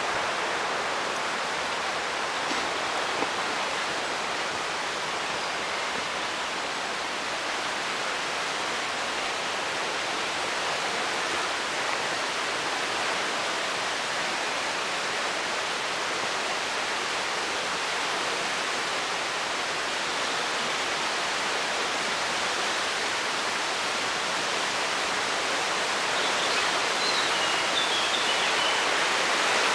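Mountain river rushing through a gorge: a steady roar of white water, growing a little louder near the end.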